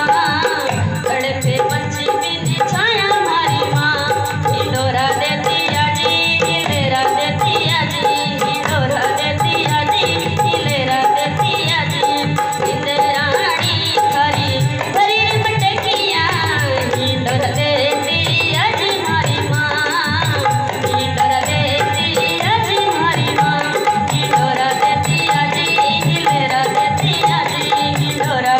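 Rajasthani folk music played live and loud, with a drum beat and rattling percussion under a melody that slides in pitch.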